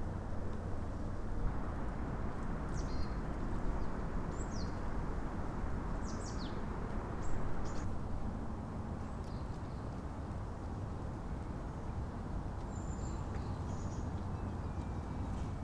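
Small birds calling outdoors: a handful of short, high chirps, mostly falling in pitch, scattered through the middle and again near the end, over a steady low rumble of ambient noise.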